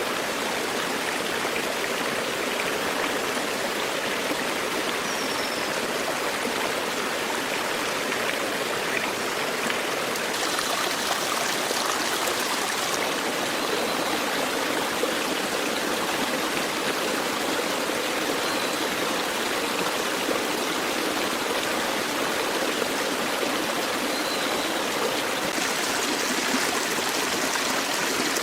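Stream water flowing steadily, with a few faint short high chirps over it.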